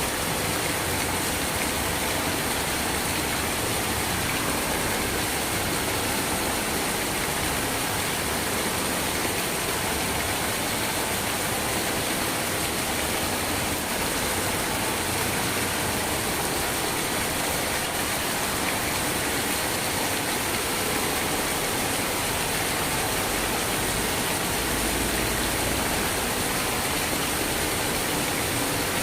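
Steady rain falling: an even, unbroken hiss with no separate drops standing out.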